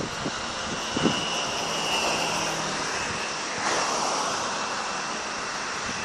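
Distant fireworks: two low thuds, one at the start and one about a second later, over a steady rushing background noise that swells a little past the middle.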